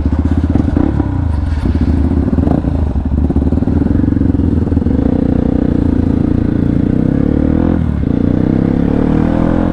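Hero Xpulse motorcycle's single-cylinder engine running loud and fairly steady through an aftermarket full-system exhaust with the dB killer removed, under way on the road.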